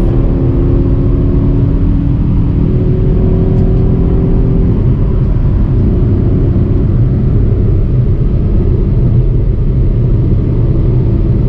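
Volkswagen Polo TDI diesel engine pulling hard at wide-open throttle toward the red line in fourth gear, with steady road and tyre rumble, heard from inside the car.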